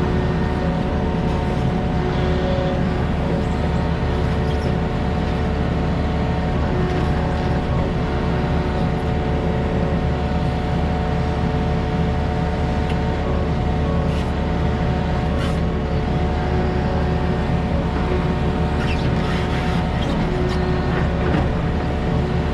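Diesel engine of a tracked construction machine running steadily at a constant speed, with a few faint metallic clicks in the second half.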